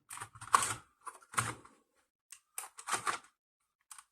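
Irregular sharp clicks and knocks of laptop parts being handled and fitted into the open laptop during reassembly, the loudest about half a second in.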